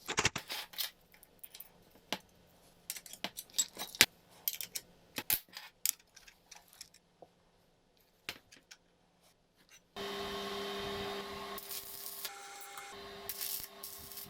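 Small metal parts clicking and knocking as they are handled, irregular and sharp. About ten seconds in, a small electric motor starts and runs with a steady whirr.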